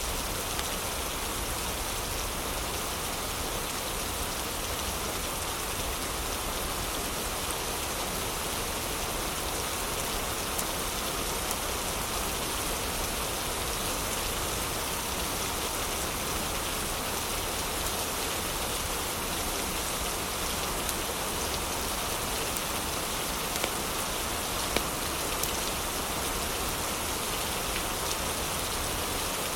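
Heavy rain falling in a steady, even hiss, with a couple of brief sharp ticks a little after two-thirds of the way through.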